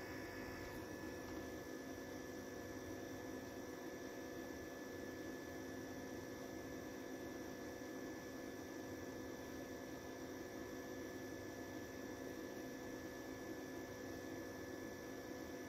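Faint steady electrical hum with a light hiss, unchanging throughout.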